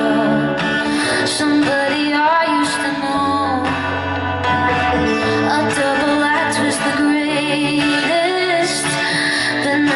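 A pop song performed live: a female voice singing a gliding melody over a band backing, with sustained bass notes that shift every second or two.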